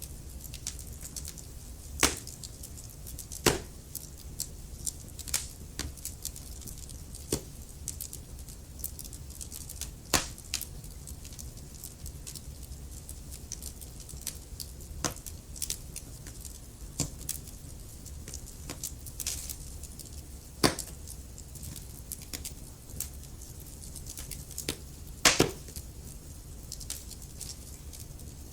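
Wood fire crackling in a fireplace: a steady soft hiss and low rumble of burning logs with irregular small snaps and pops, and a handful of louder pops, about five in all.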